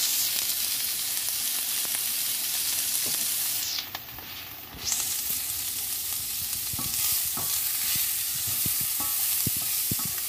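Onions and bell peppers sizzling as they fry in a cast-iron skillet, stirred with a wooden spoon that gives short scraping knocks against the pan, more of them in the second half. The sizzle briefly falls away about four seconds in.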